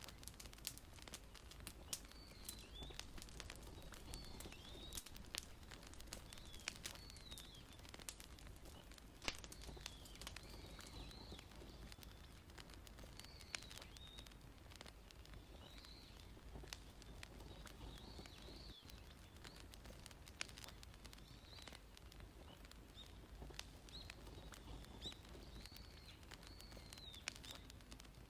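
Faint wood fire crackling, with scattered sharp pops. Behind it a small bird chirps over and over, short arched notes every second or two.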